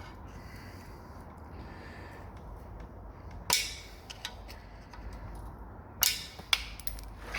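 A few sharp knocks, one about three and a half seconds in and two more around six seconds, from tools working an oil gallery plug out of a Ford Pinto engine block.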